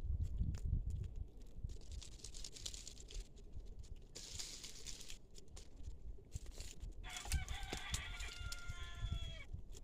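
A rooster crowing once: a single long call starting about seven seconds in and dropping away at the end. Patches of rustling and a low rumble run underneath.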